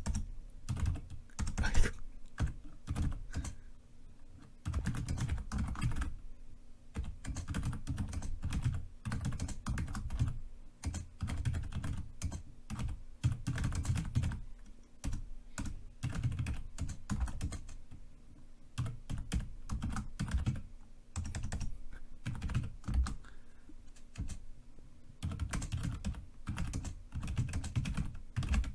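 Typing on a computer keyboard: fast runs of keystrokes broken by short pauses, with one louder key strike about two seconds in.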